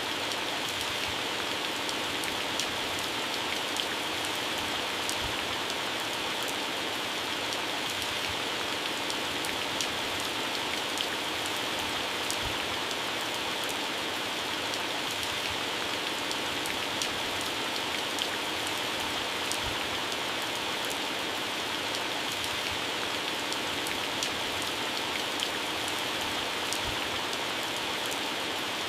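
Heavy rain falling steadily on garden plants and grass, a dense even hiss with many individual drops pattering on leaves.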